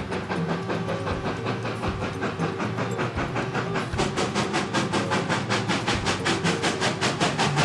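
Steam locomotive running with a hiss of steam; about halfway through, a fast, even beat of exhaust chuffs sets in, about six a second.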